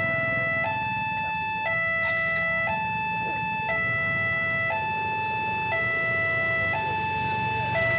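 Railway level-crossing warning alarm sounding: two electronic tones alternate, each held about a second, over a low rumble.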